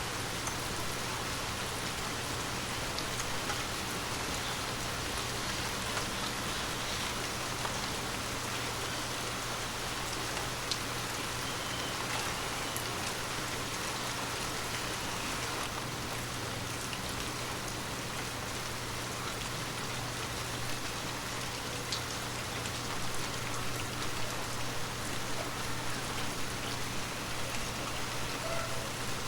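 Water drops tapping on glass: a dense patter of small drips over an even hiss, with a low steady hum underneath. The drips grow a little more uneven and distinct near the end.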